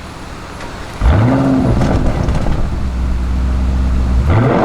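ABT-tuned Audi RSQ8-R's twin-turbo V8 revved sharply about a second in, its pitch climbing quickly and then holding at steady high revs. It climbs again near the end.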